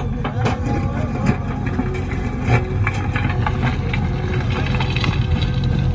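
Heavy diesel machinery engine running steadily, with scattered clanks and knocks.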